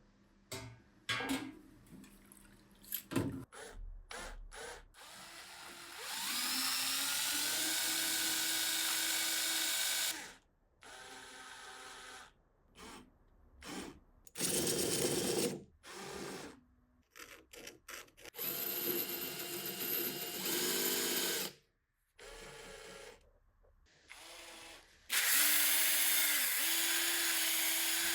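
Handheld electric power tool run in about four bursts of a few seconds each, its motor pitch rising as it spins up; short clicks and knocks come before the first run.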